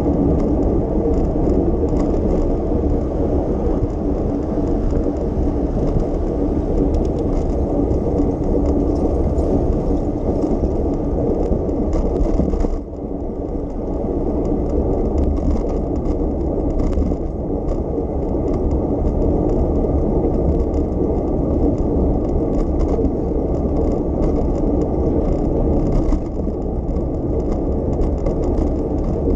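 A bicycle rolling along city streets: a steady low rumble of tyres and wind, with light rattling. The sound dips briefly about thirteen seconds in.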